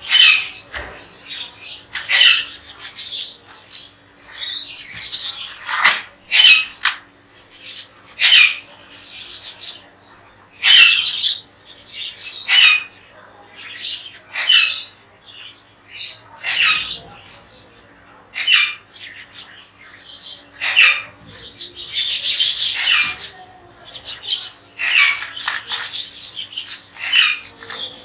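Pet parrots squawking again and again, short harsh high calls coming every second or two from several birds, with a longer rasping call about 22 seconds in.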